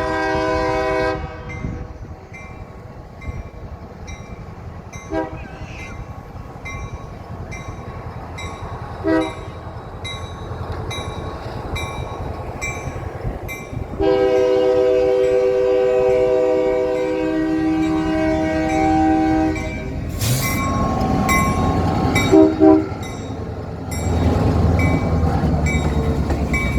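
Diesel locomotive horn sounding for a grade crossing: a blast, two short toots, a long blast of about six seconds, then a short double toot, over the rumble of the engine and rolling cars that grows louder in the second half as the train passes. A crossing bell rings steadily throughout.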